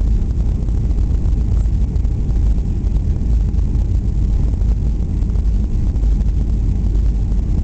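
Boeing 737-800 cabin noise heard from inside the airliner: a loud, steady, deep rumble with no breaks or distinct events.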